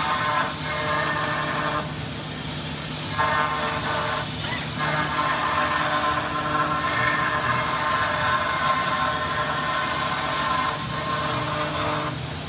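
CNC machine cutting metal: a steady whine of several tones over a constant hiss, the tone breaking off briefly a few times.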